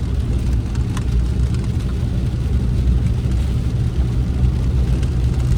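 Steady low engine and road rumble heard inside the truck's cab while driving, with a single short click about a second in.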